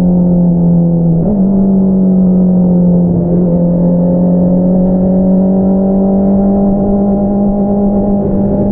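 2022 Honda CBR650R's inline-four engine running through an Akrapovič single-outlet exhaust at fairly steady revs while riding, with a brief dip and jump in pitch about a second in and a smaller shift a few seconds later.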